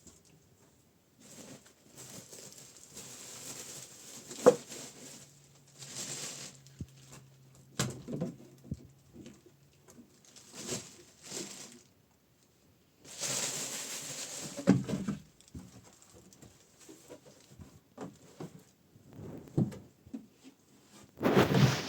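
Irregular handling noises: rustling and scraping, with a few sharp knocks.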